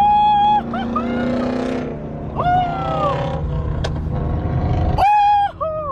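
Car engines rumbling and revving in a parking lot, with several loud, drawn-out pitched calls over them: one at the start, one that rises and falls about two and a half seconds in, and another near the end.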